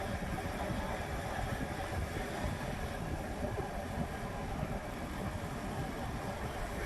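Steady traffic and engine noise heard from a motorcycle riding through city streets, with a low rumble and no single event standing out.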